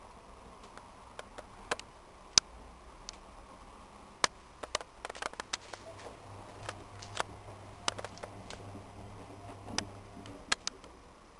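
Irregular sharp clicks and light knocks, a dozen or so spread unevenly, with a faint low hum for a few seconds in the second half.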